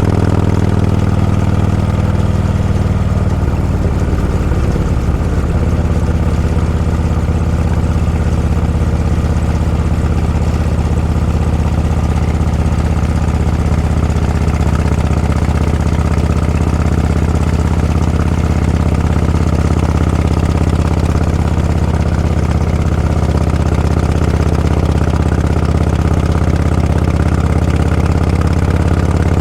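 Motorcycle engine running steadily at low revs, with a low, even note. About three to five seconds in, its pitch briefly wavers and then settles again.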